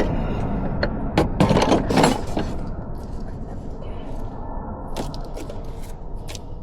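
Sharp clicks and knocks, a cluster of them about a second in and a few single ones later, over a low steady rumble.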